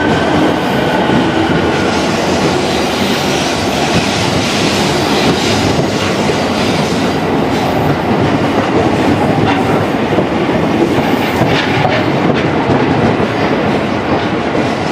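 Train passing close by: steady, loud rolling noise of wheels on rails, with a few clicks of wheels over rail joints near the end.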